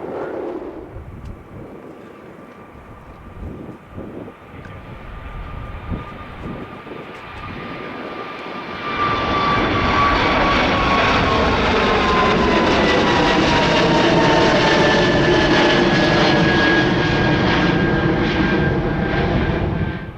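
Jet airliner's turbofan engines passing close by: a quieter rumble swells sharply about nine seconds in into a loud steady roar with whining tones that slowly fall in pitch as the plane goes past, then cut off suddenly near the end.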